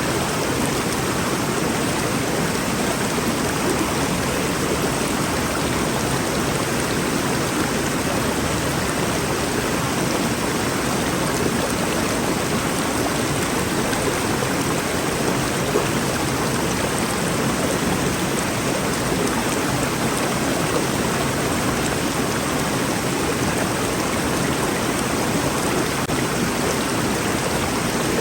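Rainforest river flowing steadily: an even, unbroken rushing of water.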